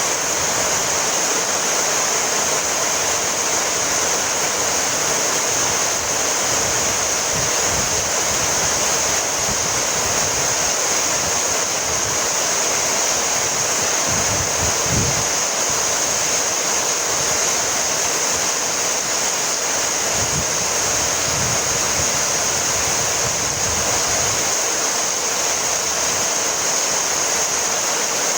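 Heavy rain falling steadily, a dense even hiss, with a few brief low rumbles around the middle.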